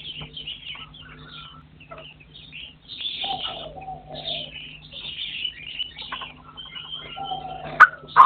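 Partridges calling: a steady run of short, high chirps, with lower drawn-out call notes about three seconds in and again near the end. A single sharp click just before the end is the loudest sound.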